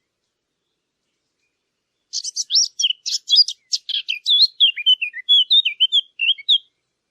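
A songbird singing one rapid, varied phrase of chirps, sweeping whistled notes and trills, starting about two seconds in and lasting about four and a half seconds.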